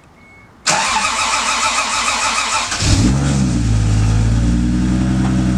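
Toyota Supra MK3 Turbo's turbocharged straight-six being started: the starter cranks for about two seconds, the engine catches with a brief rev, then settles into a steady idle.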